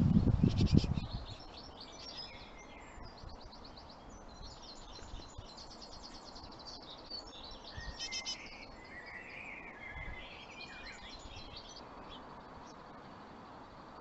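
Small birds chirping: bursts of rapid, high-pitched twittering calls that die away about eleven seconds in. A muffled low rumble fills the first second.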